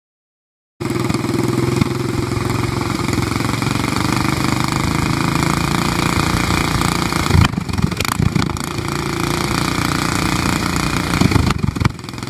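Doodlebug minibike's small single-cylinder engine running steadily with a fast, even putter. The sound starts abruptly about a second in. Brief louder, uneven bursts come about two thirds of the way through and again near the end.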